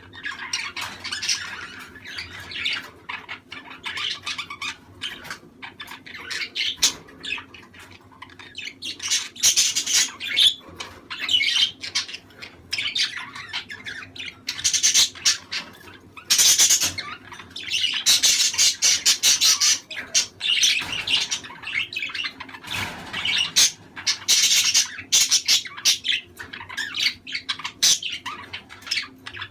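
A flock of budgerigars chattering, warbling and squawking continuously in irregular bursts, with louder squawks around the middle.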